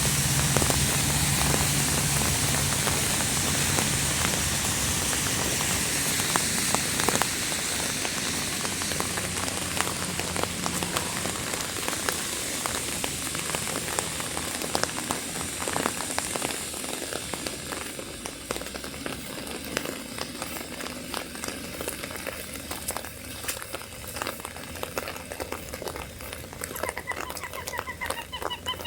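Rain falling on surfaces around a walker: a dense, even patter that eases gradually in the second half until separate drops can be heard ticking. A few short pitched calls come in near the end.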